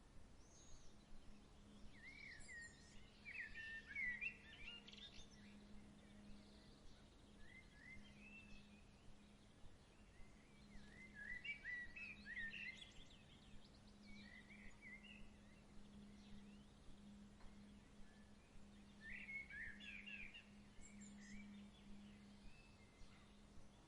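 A songbird singing, faint: three short phrases of quick rising and falling notes, about eight seconds apart, over a faint steady low hum.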